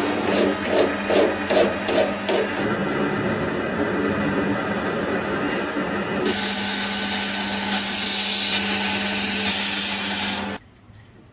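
Electric power tool running steadily with a constant hum as it works a workpiece. About two to three rhythmic strokes a second come in the first couple of seconds. From about halfway it becomes a louder hissing grind, then cuts off abruptly near the end.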